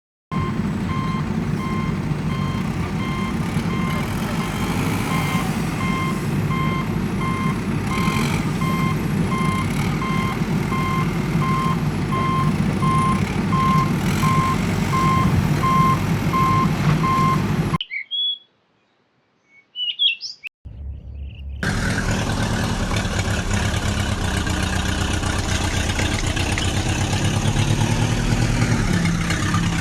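A vehicle's reversing alarm beeping at an even pace over a steadily running engine. About two thirds of the way through, the sound cuts out for a few seconds except for a few short chirps, then the engine runs on alone.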